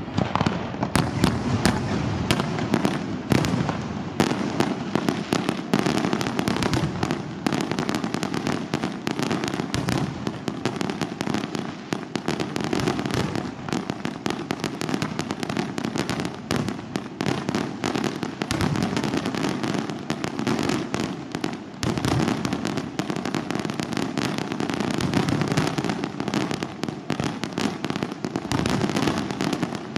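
Aerial fireworks going off in a dense, continuous barrage of bangs and crackles with no pauses.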